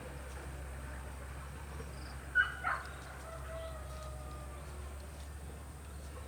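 A short bird call about two and a half seconds in, trailing off in a couple of faint, slightly falling notes, over a steady low hum.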